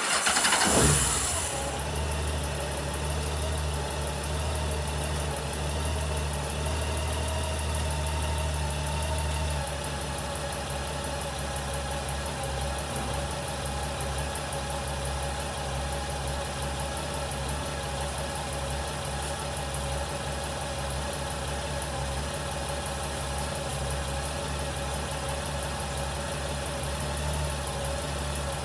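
Honda GL1800 Gold Wing's flat-six engine starting, the revs flaring briefly on catching and then settling to a steady idle. About ten seconds in the idle steps down slightly and runs evenly from then on.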